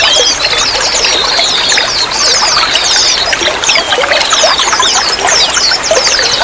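Running water trickling steadily, with small songbirds calling over it in quick runs of high, downward-sweeping chirps.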